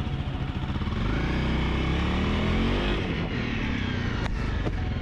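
Honda CRF 250 Rally's single-cylinder engine running, rising in pitch as it revs up between about one and three seconds in, then easing back.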